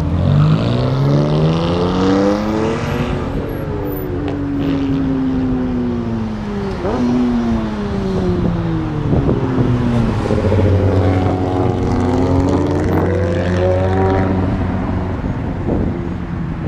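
Car engines revving as cars accelerate past one after another: several rising and falling engine notes, one climbing hard in the first few seconds and another near the end, over a steady idle hum.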